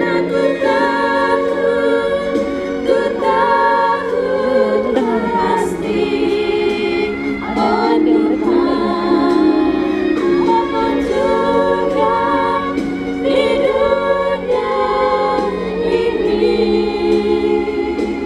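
Women's choir singing a hymn together, several voices holding long notes with vibrato.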